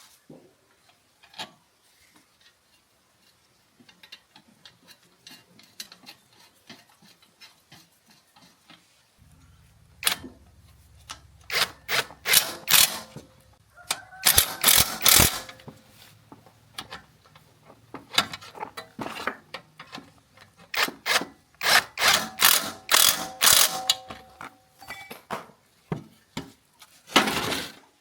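Hand tools working on a small gasoline engine: irregular runs of sharp metallic clicking and ratcheting, faint for the first few seconds and louder from about ten seconds in, with brief metallic ringing in places.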